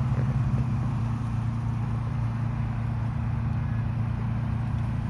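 Steady rain falling, an even hiss over a constant low hum.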